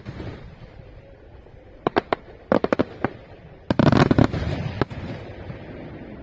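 Aerial fireworks display: a few sharp cracks about two seconds in, then a quick cluster of crackling reports, and a dense volley of bangs around four seconds in that dies away into a lingering rumble.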